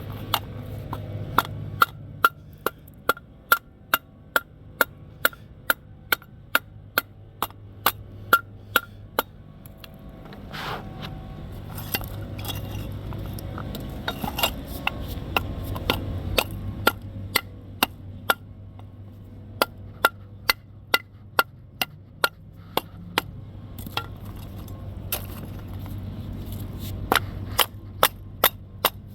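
Hammer blows on metal, about two a second in long runs with a pause midway, each with a short ring: a tab on the new engine mount being hammered flat.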